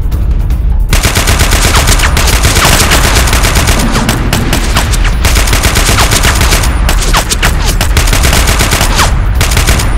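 Rapid automatic gunfire sound effects: long, fast bursts of shots starting about a second in, with a couple of short breaks.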